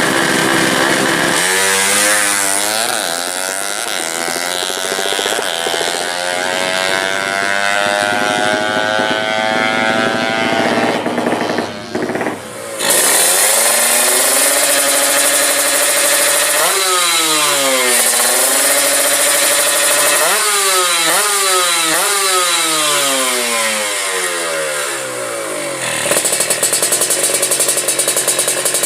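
Drag-tuned, high-compression Yamaha Jupiter single-cylinder four-stroke motorcycle engine being revved. Its pitch climbs slowly for about ten seconds and drops off briefly, then comes a series of quick blips up and down, and it runs choppy near the end.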